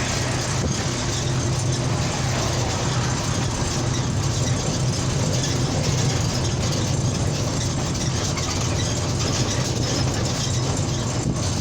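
Car driving at steady highway speed: an even engine hum with tyre and road noise that holds level, with no revving or braking.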